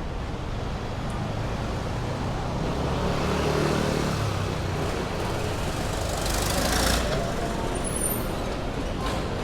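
Heavy rush-hour road traffic: steady engine and tyre noise of passing vehicles, with one vehicle's engine drone swelling about three seconds in, a short hiss about six seconds in, and a brief high squeal near the end.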